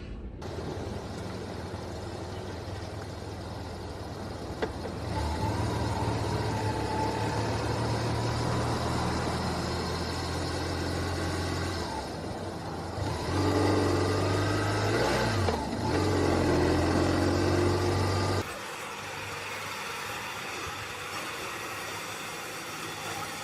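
A vehicle engine running with road noise, heard from inside the vehicle. Its low hum grows louder through the middle stretch and shifts in pitch for a moment, and the sound changes abruptly near the start and again near the end.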